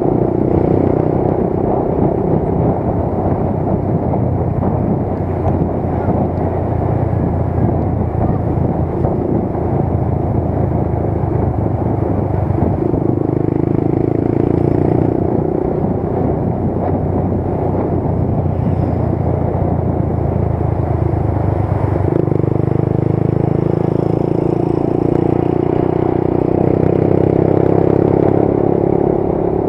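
Motorcycle running on the road while being ridden: a steady engine drone mixed with road and wind noise, shifting in pitch about 13 seconds in and again about 22 seconds in.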